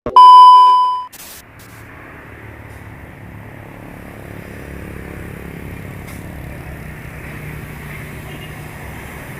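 A loud ding-like tone lasting about a second at the start, then the steady low rumble of a heavy truck driving on the road, growing slightly louder.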